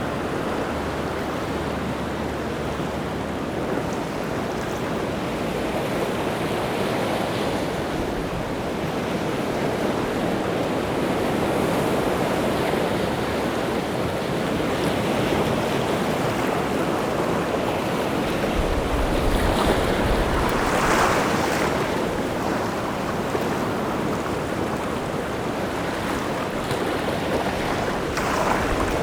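Rough sea waves breaking and washing on the shore in a continuous roar of surf, with a bigger wave crashing about two-thirds of the way through and another near the end.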